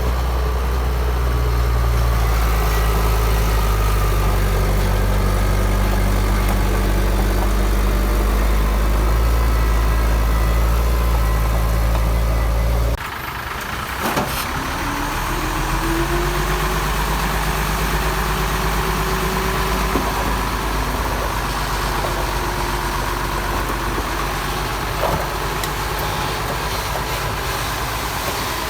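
Heavy diesel earthmoving machinery running steadily with a deep low drone. About halfway through, the sound switches abruptly to a different, lighter engine note, and a tone rises briefly and then holds.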